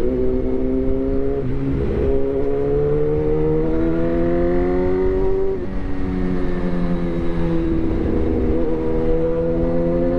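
Suzuki GSX-R1000 inline-four engine running through a replica SC-Project aftermarket exhaust, its revs climbing slowly. The revs drop back briefly about a second and a half in and again after about five and a half seconds, then climb again.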